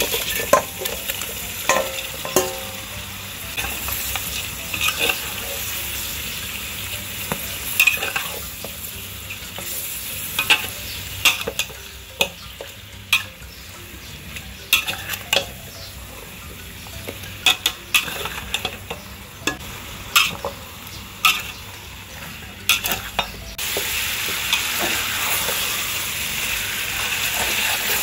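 Chicken pieces frying and sizzling in oil with onions and spices in a pot while a spatula stirs them, scraping and knocking against the pot again and again. The sizzling turns louder and steadier near the end.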